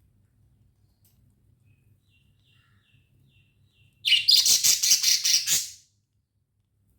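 Budgerigar chirping: a few faint short chirps, then, about four seconds in, a loud, rapid run of high chirps, about seven a second, that stops abruptly after nearly two seconds.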